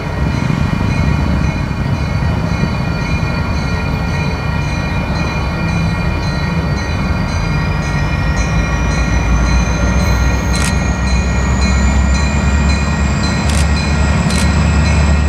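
Approaching diesel-hauled passenger train: a steady low rumble that grows louder through the second half. A few sharp clicks come near the end.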